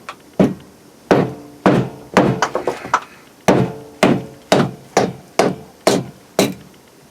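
Repeated blows on wood, about a dozen sharp knocks at roughly two a second, each with a short ringing tail, with a quicker patch of smaller knocks about halfway through.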